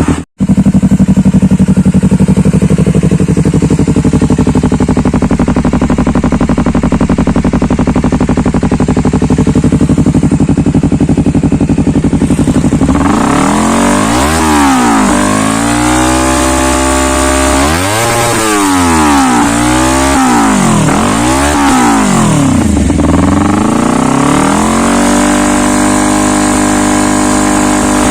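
Honda CBR250RR 250 cc parallel-twin engine through an aftermarket Triton GT-5 stainless-steel exhaust, idling steadily for about thirteen seconds. It is then revved in a series of throttle blips that rise and fall, ending on a held higher rev.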